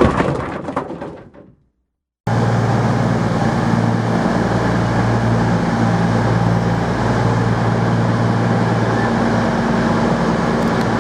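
Train running: a clattering rattle with clicks fades out over the first second or so, then after a brief gap a steady rumble with a low engine drone.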